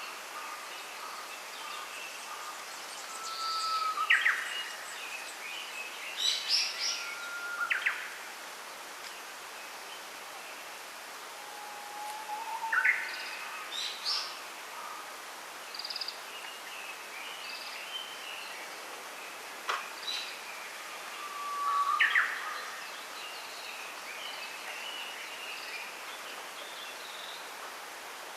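Small birds singing in a bamboo grove: one bird repeats a phrase about four times, a held whistle followed by a quick rising flourish, with shorter high chirps between. A steady soft hiss of the grove underlies it, and a single sharp tick comes a little past two-thirds of the way through.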